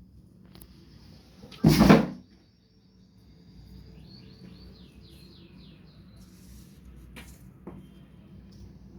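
A single loud knock or clatter about two seconds in, followed by a bird giving a quick run of short falling chirps, with two light clicks near the end.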